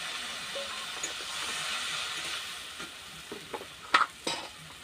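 Radish greens sizzling in a wok, stirred with a metal spatula. The sizzle fades, and in the second half the spatula scrapes and knocks against the wok a few times, loudest about four seconds in.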